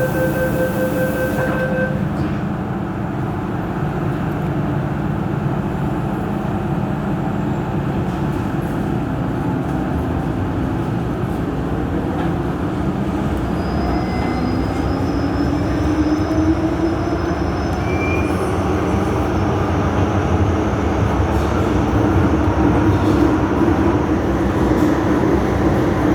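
MTR Island Line train running, a steady rumble of wheels and motors, with a rapid beeping tone in the first two seconds. From about halfway a motor whine rises in pitch as the train gathers speed.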